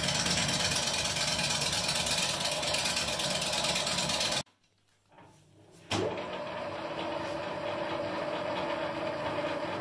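Sawmill machinery running with a dense, loud noise that cuts off abruptly about four seconds in. After about a second and a half of near silence and a click, a steadier machine sound with a held hum starts up.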